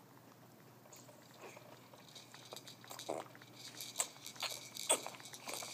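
A baby's mouth noises: short clicks and smacks with a few brief squeaky vocal sounds, sparse at first and growing more frequent and louder from about two seconds in.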